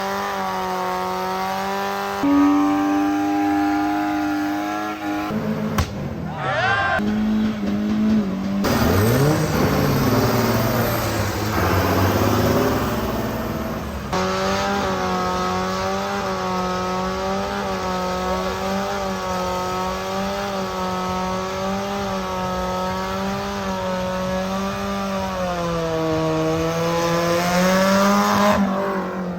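Car engine held at high revs for long stretches, rising and dropping in pitch, with tyre squeal, as in a burnout.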